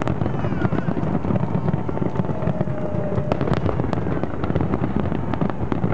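Fireworks finale: aerial shells bursting in a dense barrage, the booms running together into a continuous rumble with many sharp cracks on top.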